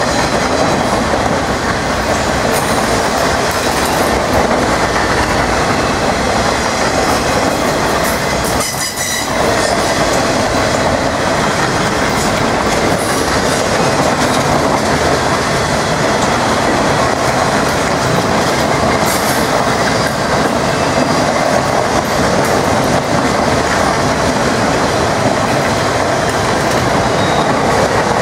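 Autorack freight cars of a Norfolk Southern train rolling past close by: a steady, loud rumble and clatter of steel wheels on the rails, dipping briefly about nine seconds in.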